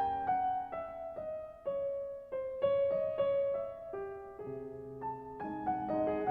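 Background piano music: a slow, gentle melody of single struck notes, each ringing and fading.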